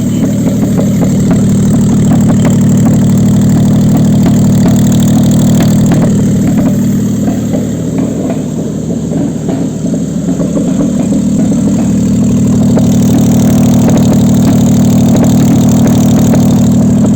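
Toyota 2GR-FSE 3.5-litre V6 running steadily on an engine test stand during a check run of the used engine. Its loudness dips somewhat a little before the middle and comes back up a few seconds later.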